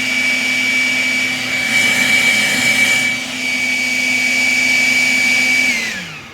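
Leaf blower running at a steady high whine with a rushing airflow, louder for a second or so in the middle, then switched off near the end, its pitch falling as it spins down.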